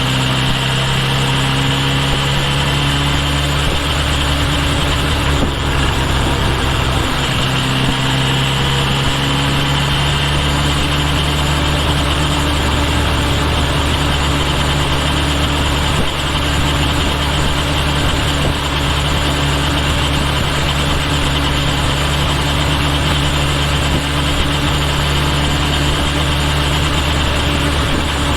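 Kawasaki Ninja H2 SX's supercharged inline-four engine running at a near-steady note, heard close from a microphone by the rear turn signal. The pitch shifts slightly about four seconds in and again about seven seconds in.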